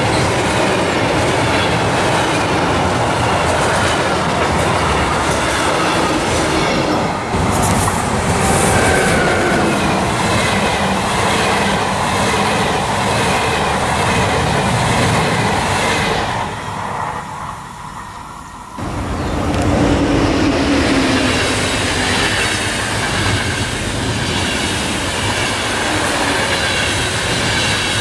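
Electric-hauled trains passing close by, wheels rushing and clattering on the rails: first an intermodal freight train, then, from about 7 s in, an ÖBB Railjet pushed or pulled by a Taurus locomotive, and near 19 s a EuroCity hauled by an ÖBB 1016 Taurus. The sound cuts abruptly between the three, and the Railjet's noise dies down briefly just before the second cut.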